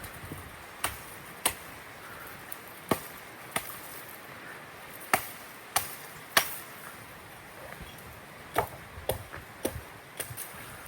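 Wood being chopped: about a dozen sharp, irregularly spaced chopping strikes, with lighter, quicker ones near the end.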